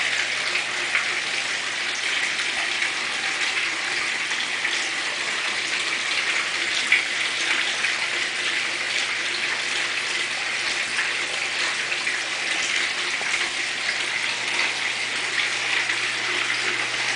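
Water falling and splashing steadily over a waterfall sculpture of galvanized sheet-steel figures, with a steady low hum underneath.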